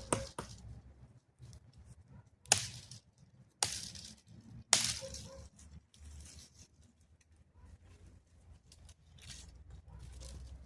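Dry wood snapping: four sharp cracks, each with a brief rustling tail, spaced about a second apart in the first five seconds, then only faint scattered ticks.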